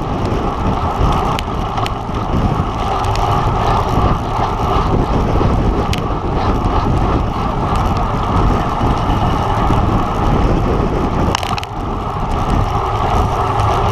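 Steady wind rush and road noise from a road bike ridden at race speed, with a few sharp clicks scattered through.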